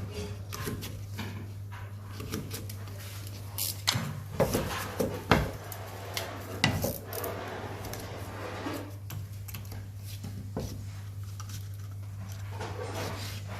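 Wallpapering hand tools and paper being handled and scraped against a wall. There are several sharp clicks and taps between about 4 and 7 seconds in, all over a steady low hum.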